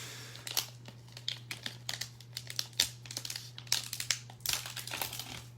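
Plastic wrapping crinkling in irregular bursts as trading cards are unwrapped and handled by hand, over a steady low electrical hum.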